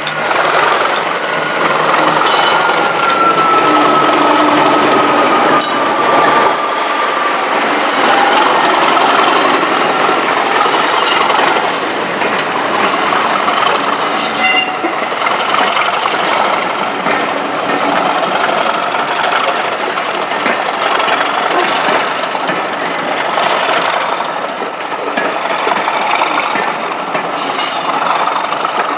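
A train running past on the rails, a continuous rolling noise of wheels on track with a few sharp clicks. A thin high whine slowly falls in pitch over the first several seconds.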